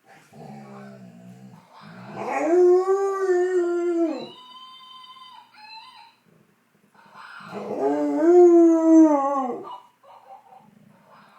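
A young Labrador retriever howls twice, each a long, drawn-out howl that rises and falls in pitch. The howls answer an animal-sound toy, and a thinner, higher tone sounds briefly between them.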